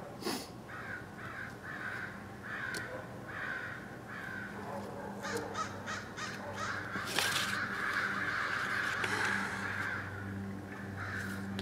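Short bird calls repeated about twice a second, over a steady low hum.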